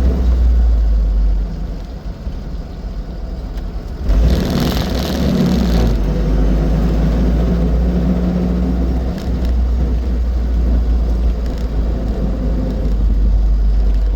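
Austin 7 Ruby's small four-cylinder side-valve engine running, with road and drive noise, while driving. About four seconds in, a louder rushing noise lasts about two seconds.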